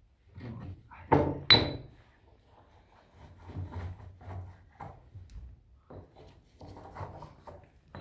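Pestle crushing chilis in a mortar: irregular knocks and scraping rubs, with two sharp strikes about a second and a half in.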